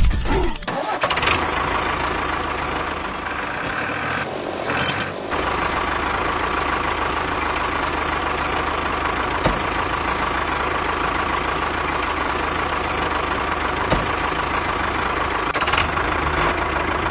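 Engine of a mini tractor running steadily, with a brief change in the sound about four to five seconds in before it runs on.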